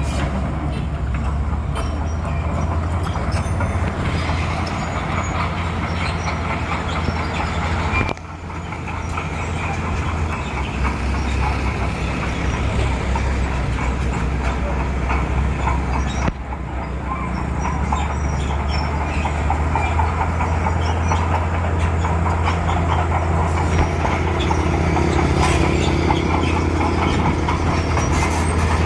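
Crawler bulldozer working: its diesel engine runs steadily under the continuous metallic clatter of its steel tracks. The sound drops abruptly and picks up again twice, about eight and sixteen seconds in.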